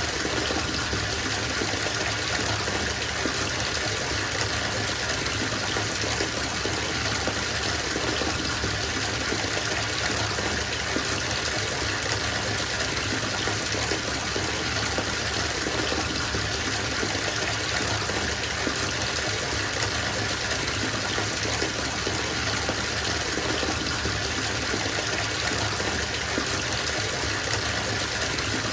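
Bathtub filling from the tap: a steady gush of running water pouring into the tub.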